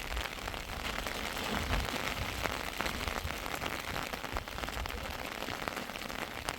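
Steady heavy rain falling, with a dense patter of sharp individual drop impacts.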